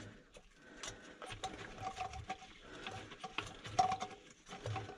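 Small irregular clicks, taps and scrapes from hands positioning a sewer ejector pump's float switch and its cord in the basin, with a faint squeak a few times.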